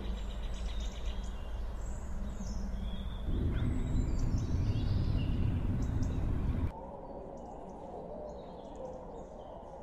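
Birds chirping with short whistled calls over a steady outdoor background; a louder low rumble joins about three seconds in, and the background changes abruptly to a quieter one about two-thirds of the way through.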